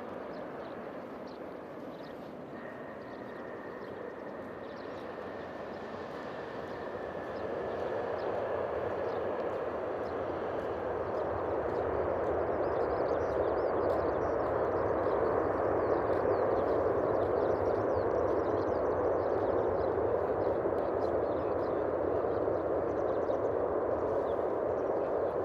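Jet engine noise of a landing Boeing 767-300ER, a steady rushing roar that grows louder about eight seconds in and then holds. Over the first ten seconds a faint high whine slowly falls in pitch.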